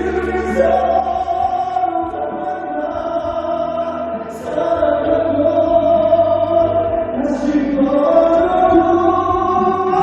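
Male vocalist singing a slow ballad over backing music, holding long high notes.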